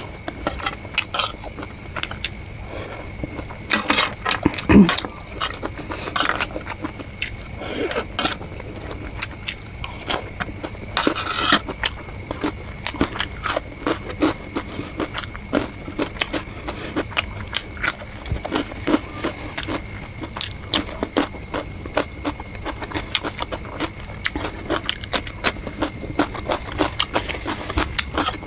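Close-miked eating: many short, crisp crunches and chewing of Kurkure corn-puff snacks and chow mein noodles, with spoon and mouth sounds, over a steady high-pitched background whine.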